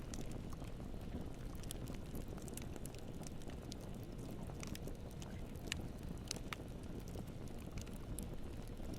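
Campfire burning: a steady low rumble of flames with scattered sharp pops and crackles, a few louder snaps in the middle.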